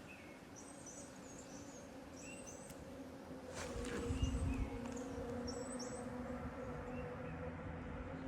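Small birds chirping in short, high calls repeated every second or two, over quiet forest ambience. About halfway through, a steady low hum sets in and the overall sound grows a little louder.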